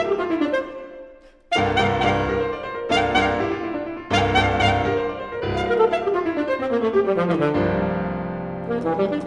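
Classical piano alone, playing loud struck chords that fade almost to silence about a second in. Further chords follow, then a falling run of notes in the second half.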